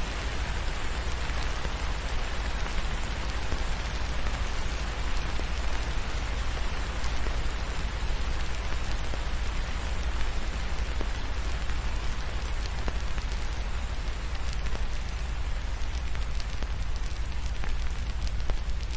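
Steady rain, an even hiss of drops with scattered small ticks and pops, over a constant deep low rumble.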